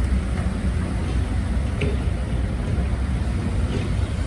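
Steady low rumble of heavy diesel construction machinery running, with a few faint short high sounds over it.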